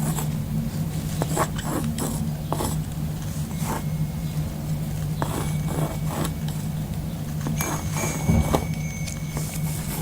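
Pen scratching and tapping across a cork surface in short, irregular strokes, over a steady low hum.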